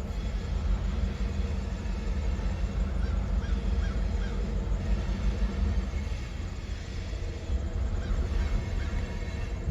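Steady low rumble of a passing train, with geese honking now and then above it.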